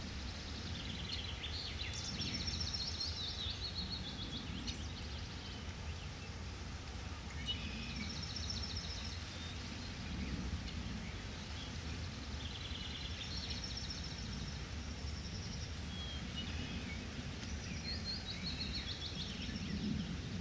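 Forest ambience: a songbird sings short phrases of quick repeated high notes about every five or six seconds over a steady low rumble.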